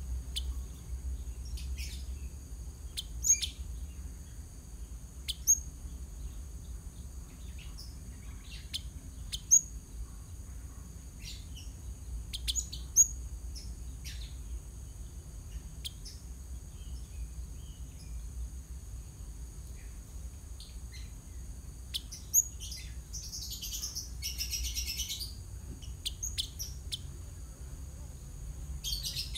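Java sparrow calling: a string of sharp, short chirps a second or more apart, a few of them much louder, with a burst of rapid chattering about three-quarters of the way through.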